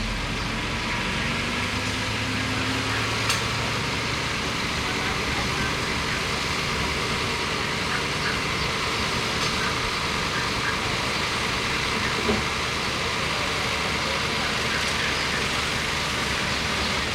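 Bulldozer's diesel engine running steadily, its pitch rising slightly over the first few seconds, with a couple of short sharp knocks.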